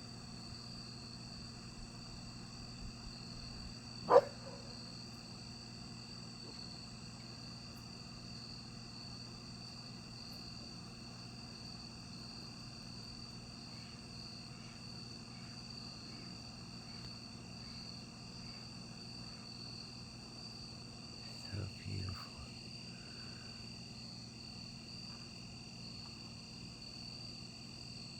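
Steady insect chorus at night, a continuous high-pitched trill. A single sharp knock sounds about four seconds in, and a couple of soft thumps come near the end.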